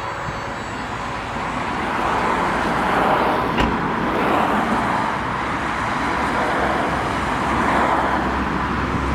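Road traffic noise, a steady wash that swells and fades as vehicles go by, with a single sharp click about three and a half seconds in.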